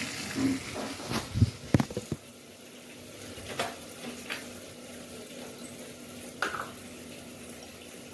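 A run of knocks and clatters from metal cookware being handled over the first two seconds, then a faint steady sizzle of onion-tomato masala frying in an aluminium pot, with a few light clicks.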